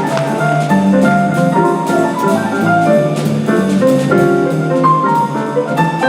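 Live jazz combo playing: piano and drum kit, with cymbal strokes keeping time under a moving melodic line.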